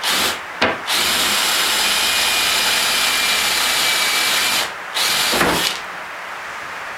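A handheld power tool working a piece of dense hardwood in three runs: a short burst, a long steady run of about four seconds, then a brief final burst.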